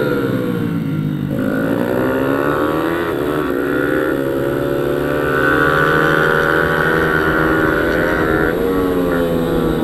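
Pit bike's small single-cylinder four-stroke engine revving on a track: the pitch drops at the start, climbs again from about a second in, holds high for a few seconds, then dips briefly near the end before rising once more.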